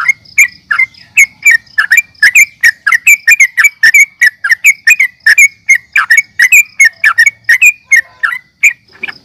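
Yellow-vented bulbul (trucukan) in full song: a fast, unbroken run of short, loud, sweeping whistled notes, about three to four a second, with a brief pause near the end.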